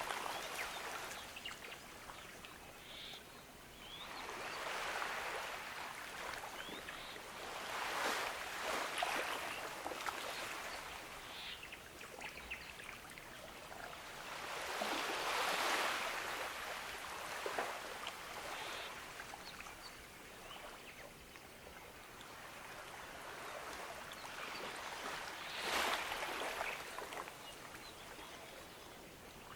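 Gentle ocean waves washing onto a beach, a steady hiss of surf that swells and ebbs every few seconds, loudest about fifteen seconds in and again near the end.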